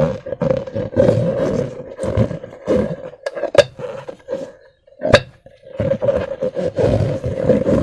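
Slime being squeezed and worked by hand in balloons: irregular wet squelching and crackling, broken by a few sharp pops, with a quieter lull about halfway through.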